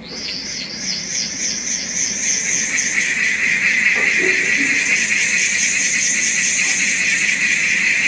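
Homemade cicada noisemaker toy sounding a steady, shrill, cicada-like buzz that grows louder over the first couple of seconds and then holds.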